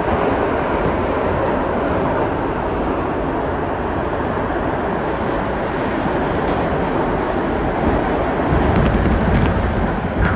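Kawasaki R62 subway train running, a steady rumble and rail noise. About eight and a half seconds in, the low rumble grows louder, with a few faint clicks near the end.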